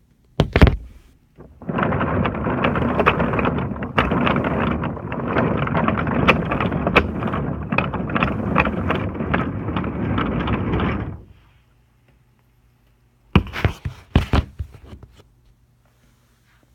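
Train running along track: a steady rumbling clatter, dense with clicks, lasting about nine seconds. It comes between a single thump near the start and a few knocks near the end.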